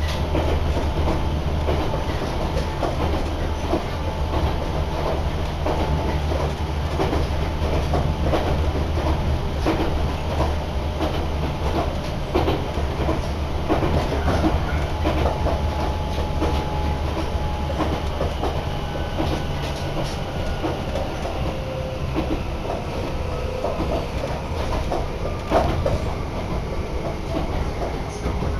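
Inside a moving passenger train: a steady low rumble, with the clickety-clack of wheels over rail joints. In the second half a faint whine drifts slowly down in pitch.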